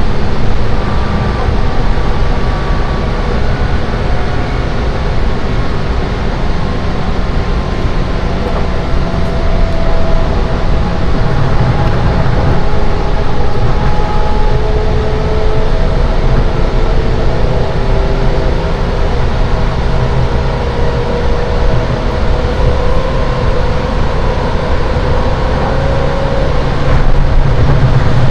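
Seibu 10000 series Red Arrow limited-express electric train running at speed, heard from inside the passenger car: a loud, steady rumbling running noise with faint whining tones that drift slowly up and down in pitch.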